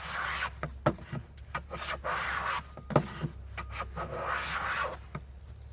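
Hand plane taking strokes along a rough wooden board: repeated hissing, rasping passes of the blade, with sharp knocks as the plane is set down and drawn back between strokes.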